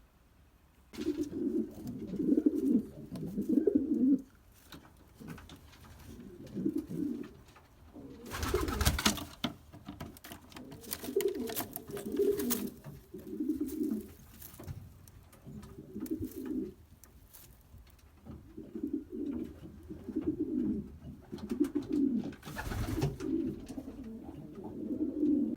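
Racing pigeons cooing in the loft, a series of low repeated coo phrases one after another. Twice, about a third of the way in and near the end, a brief loud rustling burst cuts across the cooing.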